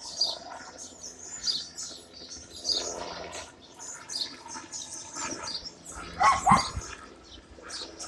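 Small birds chirping over and over, short high calls throughout, with one louder call about six seconds in.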